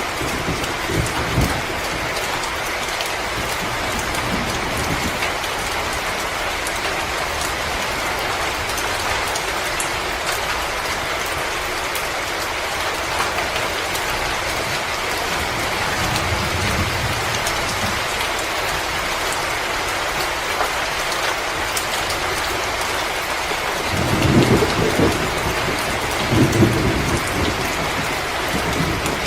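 Wood fire crackling in a fireplace: a steady hiss with scattered sharp crackles, and a few low rumbles about sixteen, twenty-four and twenty-six seconds in.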